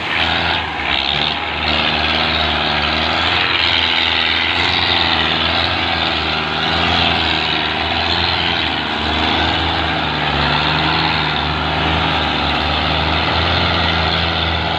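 Belarus tractor's diesel engine running hard under load, its pitch wavering up and down as it strains to pull a stuck four-wheel trolley.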